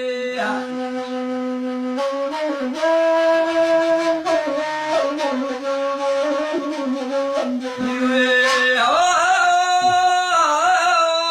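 A flute playing a solo melodic passage of long held notes that shift pitch every few seconds, ending in wavering, ornamented turns.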